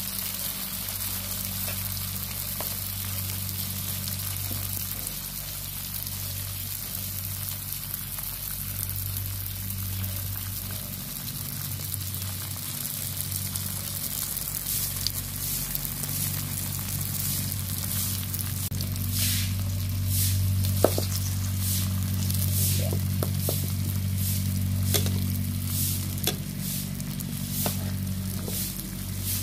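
Shrimp-and-batter pancake sizzling in hot oil in a frying pan, a steady hiss. From about two-thirds of the way through, sharp crackling pops come thick and fast, with a spatula now and then pressing and scraping in the pan.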